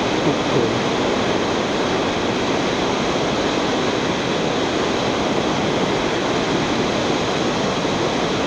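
Steady roar of a large waterfall, water pouring and crashing without a break.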